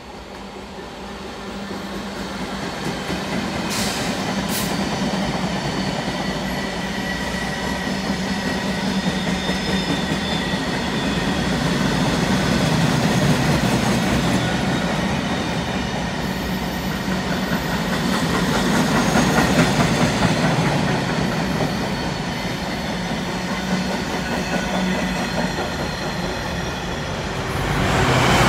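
A freight train passing through a station: the locomotive comes in and the sound grows louder over the first few seconds. Then a long run of container flat wagons rumbles over the rails, with steady high-pitched wheel whine and two sharp clicks about four seconds in. It gets louder again right at the end.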